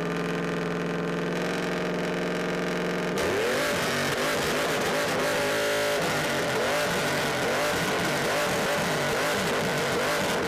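A car engine held at a steady pitch for about three seconds, then revved up and down over and over, about one rev every half second or so.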